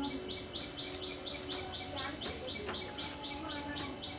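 A bird chirping over and over, a short high chirp about four times a second.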